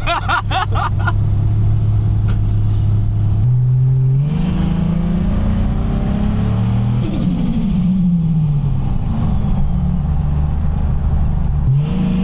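Turbocharged Nissan Patrol TB48 engine on the move: steady, then picking up about three and a half seconds in with the pitch rising. A falling tone sweeps down around seven seconds in, and near the end the revs dip briefly and climb again.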